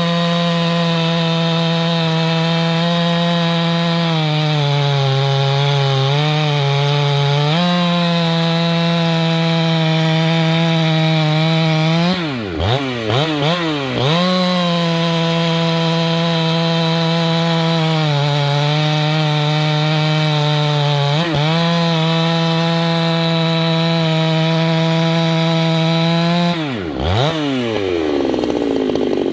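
Husqvarna 390XP two-stroke chainsaw running at high revs, its steady high note sagging a little now and then, with the throttle let off and opened again twice about halfway through and let off once more near the end. The saw has just had its carburetor replaced because of a leaking Welch plug.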